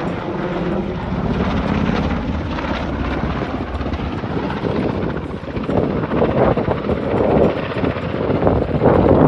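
Helicopter flying a display pass, its rotor and turbine noise growing louder and pulsing in the later seconds as it comes closer.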